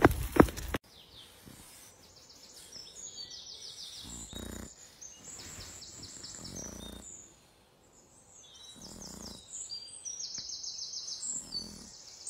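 Songbirds chirping and trilling faintly in short repeated phrases. It opens with a loud burst of noise that cuts off abruptly under a second in.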